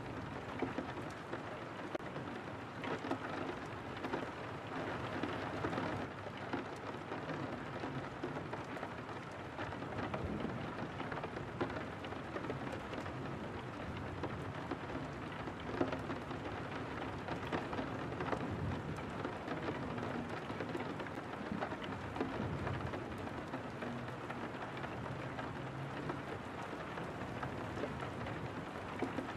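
Steady rain on a window pane: a continuous hiss full of individual drop hits, with a low rumble underneath.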